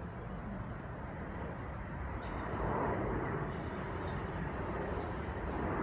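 Distant rumble of an approaching train, a steady low noise that grows gradually louder from about two seconds in.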